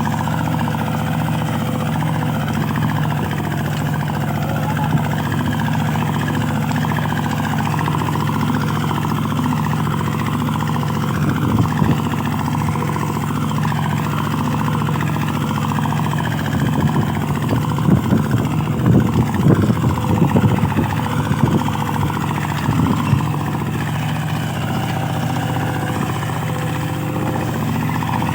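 Mini tractor engine running steadily, with a stretch of irregular knocking and clatter about two-thirds of the way through.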